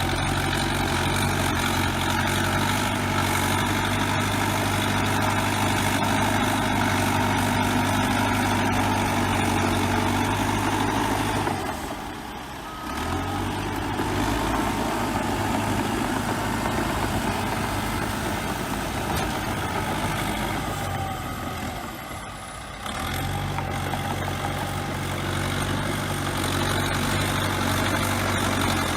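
Bulldozer diesel engine running steadily, with a drop in level about twelve seconds in and again about twenty-two seconds in.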